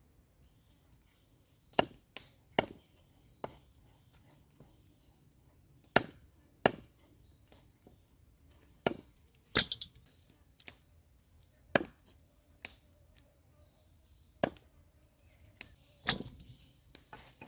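Knife chopping on a wooden cutting board: single sharp strokes, irregularly spaced, about a second or two apart.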